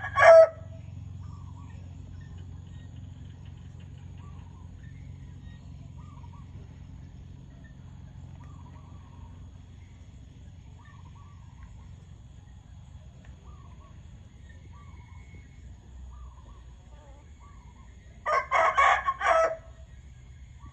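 Rooster crowing once, loudly, about 18 seconds in, after a short loud call at the very start. In between come faint, soft chicken calls over a low steady hum.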